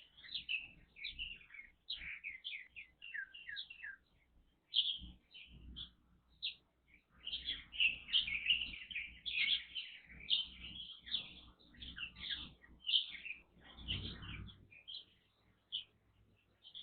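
Light-vented bulbuls and Japanese white-eyes chirping in quick, overlapping bursts of short high notes. The calling grows busier about halfway through.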